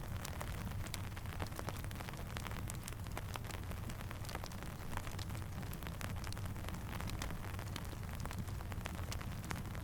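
Steady rain falling, with a crackling campfire popping and snapping in many short, sharp clicks over a low, even rumble.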